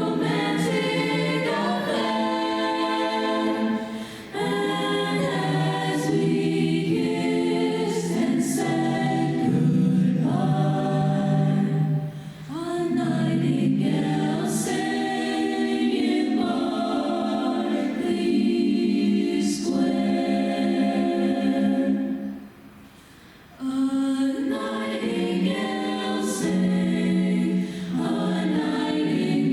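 An a cappella choir sings a slow ballad in close harmony, holding chords that change every second or two. There is a short break for breath about three-quarters of the way through.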